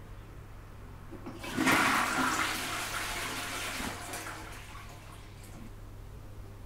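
Toilet flushing: a sudden rush of water starts about a second and a half in and dies away over the next four seconds.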